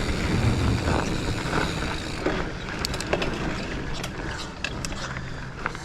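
Giant Fathom mountain bike rolling over a dirt trail: tyre rumble and frame and chain rattle, with the rear hub's freewheel ticking as it coasts and sharp clatters in the second half.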